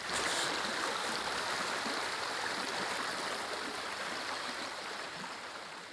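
Flowing stream water: a steady rushing that slowly fades out toward the end.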